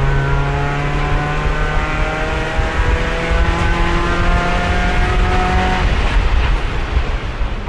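Race car engine heard from the cockpit, pulling hard in fourth gear with its note climbing slowly, then easing off about six seconds in to a rougher, lower rumble. The car is held in fourth because the transmission has lost third gear and won't shift at speed.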